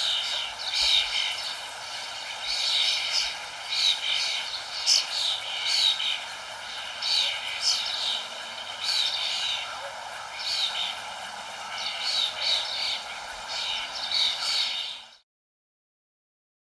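Many small birds chirping in quick, overlapping calls over a steady background hiss; everything cuts off suddenly about a second and a half before the end, leaving total silence.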